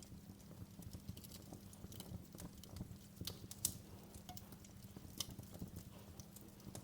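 Wood fire crackling in a fireplace: irregular small pops and snaps over a low steady rumble, with the sharpest pop a little past halfway.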